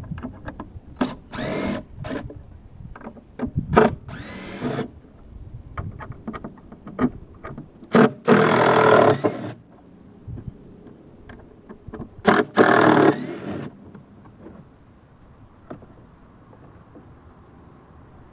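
Power drill spinning out screws in repeated short bursts, the two longest runs about eight and twelve seconds in. Between the bursts come clicks and knocks of parts being handled, and the last few seconds hold only light clicks.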